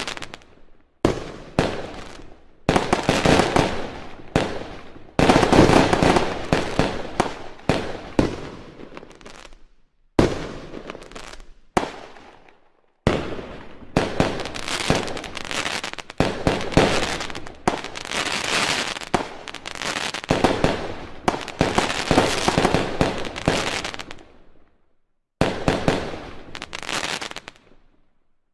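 Fireworks going off: dense strings of sharp cracks and bangs in several loud stretches, each starting suddenly and dying away, with short silent gaps between them.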